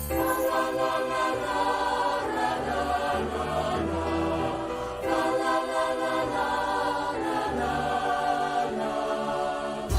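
Choir singing held chords over a steady bass accompaniment, with no clear words.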